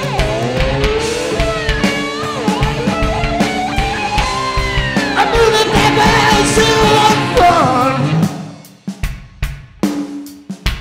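Live rock band playing loudly, drums, bass and guitar with sliding, gliding notes like a lap steel's. About eight seconds in the band drops out, leaving scattered drum hits.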